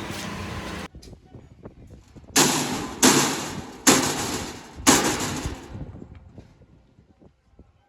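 A steady machine noise cuts off suddenly about a second in, then four loud bangs about a second apart, each dying away over about half a second.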